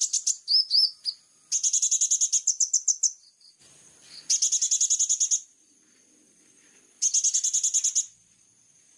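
Recorded songbird song: high, rapid trills about a second long, repeated every couple of seconds with short pauses between, over a faint steady high tone.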